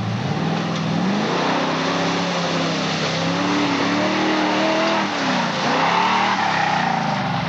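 Truck engine revving, its pitch rising and falling over a second or two at a time. It starts suddenly and runs at a steady, loud level.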